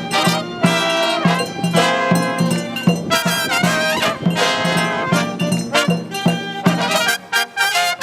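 Marching brass band playing: trumpets and trombones over a bass line that pulses about twice a second, with sharp drum hits. The bass notes drop away near the end.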